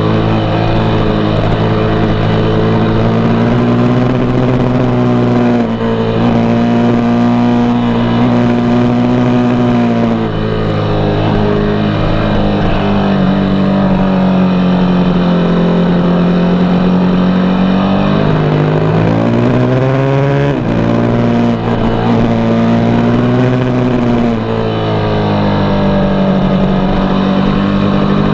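KTM RC8's V-twin engine under way, its note rising and falling with the throttle as it holds a steady pull through the bends. About two-thirds of the way through, the pitch drops briefly and then climbs sharply.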